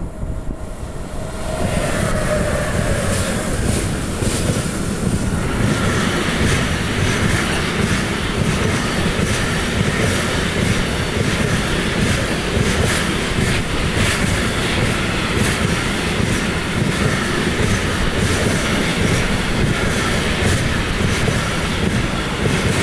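Two Siemens Vectron electric locomotives hauling an intermodal freight train past at speed: a short falling whine as the locomotives go by, then the steady rumble and clickety-clack of the freight wagons' wheels on the rails, with a faint squeal at times.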